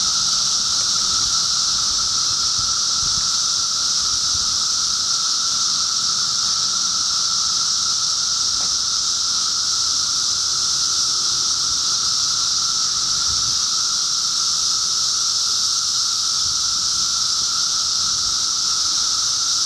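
Dense chorus of periodical cicadas from a mass emergence, a steady, unbroken high-pitched drone with a second, lower hum beneath it.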